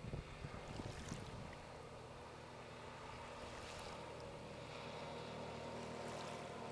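Motorboat engine running steadily with water noise, and gusts of wind buffeting the microphone in the first second or so.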